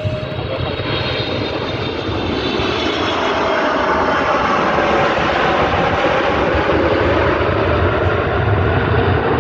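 Jet airliner's engines, a loud racket that builds steadily louder, with whining tones that slowly shift in pitch over the rumble.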